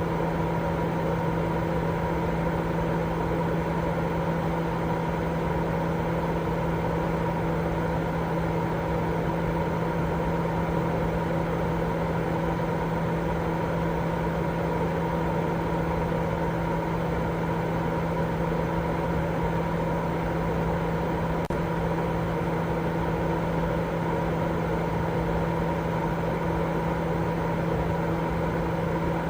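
Continuous, unchanging white noise for baby sleep: an even rush, strongest in the low and middle range, with a steady low hum underneath.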